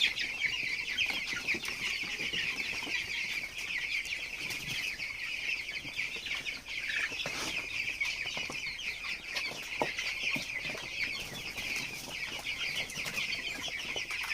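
A large flock of young broiler chickens peeping continuously, a dense chorus of many overlapping high calls.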